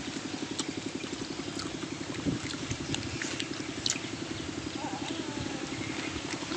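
A small engine idling with a fast, even pulse, over scattered sharp crackles.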